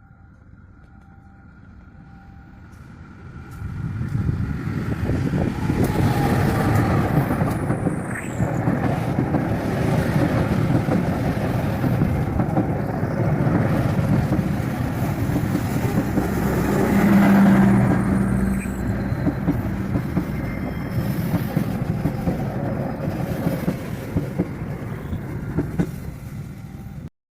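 Joglosemarkerto passenger train's diesel locomotive and coaches passing close by on a sharp curve: the rumble builds about three and a half seconds in and runs on loudly, with a few brief high squeaks, then cuts off abruptly near the end.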